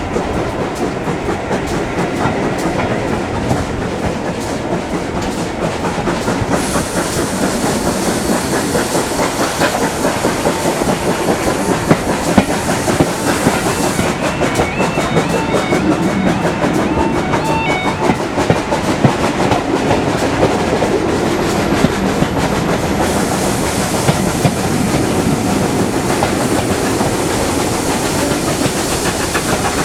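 Heritage railway train running, its wheels clattering steadily over the rail joints with a continuous rumble and rattle.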